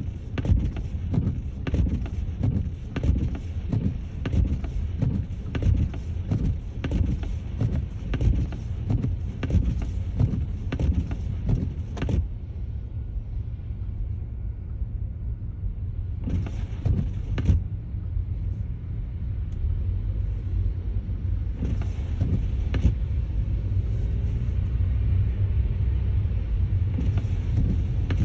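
Car driving on a snowy road: a steady low road and engine rumble. For about the first half, rapid irregular knocks and rattles run over it, and then it turns smoother.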